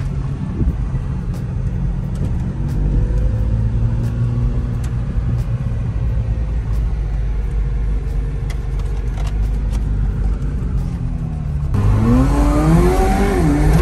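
McLaren supercar engine heard from inside the cabin, running low and steady as the car rolls slowly, then revving up with climbing pitch near the end as it accelerates.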